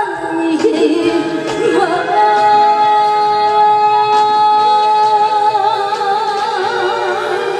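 Female trot singer live with band accompaniment, holding one long note from about two seconds in, its vibrato widening near the end.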